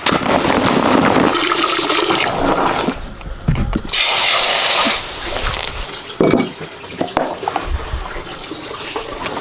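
Water rushing and splashing in loud surges, strongest for about a second near the middle.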